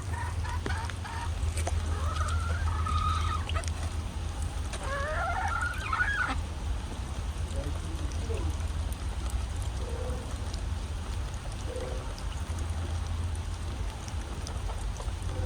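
Hens clucking and calling in short rising and falling notes for the first six seconds or so, then only a few faint calls, over a steady low rumble.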